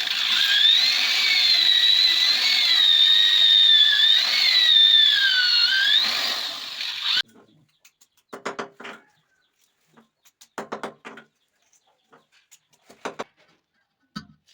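Electric drill running under load, its motor whine wavering in pitch, then stopping suddenly about seven seconds in. A few short knocks of handling follow.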